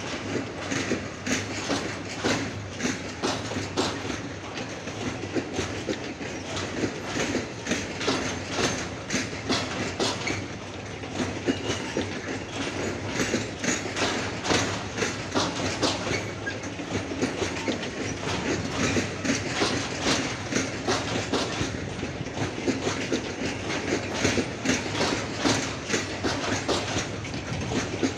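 Freight train of covered hopper wagons rolling past, its steel wheels clattering over the rails in a continuous, irregular stream of clicks over a steady rumble.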